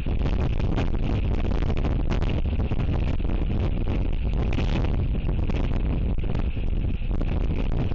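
Strong wind buffeting the camera's microphone, a loud, steady rumbling roar.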